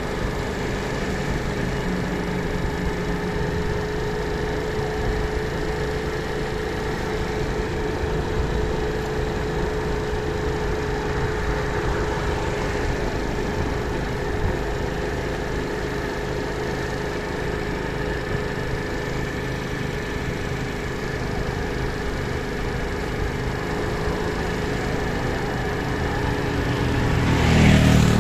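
Engine running steadily with a held hum. It swells louder with a low rumble near the end.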